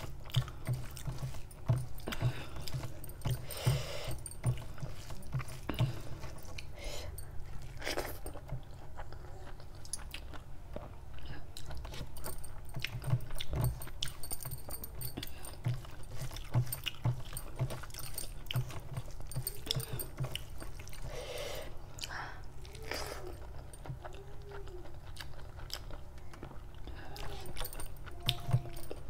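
Close-miked chewing and mouth sounds of eating rice and chicken kofta curry, with many small wet clicks and smacks, and fingers mixing rice and gravy against a steel plate.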